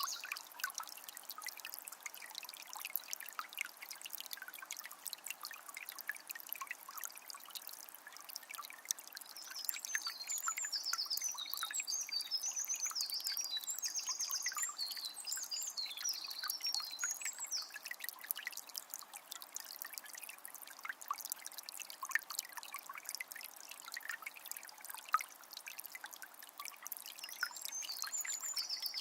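Small spring trickling and splashing steadily. A songbird sings in short repeated phrases from about a third of the way in until past the middle, and starts again near the end.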